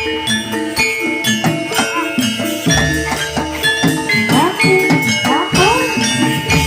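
Jathilan gamelan music: metallophones ringing held notes over drum strokes, with jingling bells throughout. From about four seconds in, drum strokes bend up and down in pitch.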